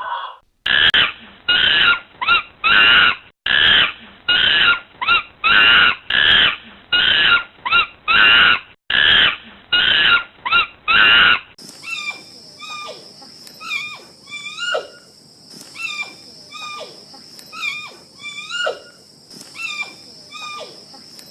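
Animal calls in two recordings. First come loud, harsh calls repeated in quick groups of three or four. About halfway in the sound changes to short chirping calls over a steady high whine.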